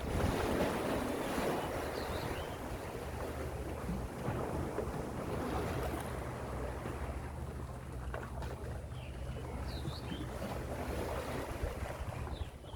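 Gentle sea waves washing in, a steady wash of surf that swells just after the start, with a low wind rumble on the microphone underneath.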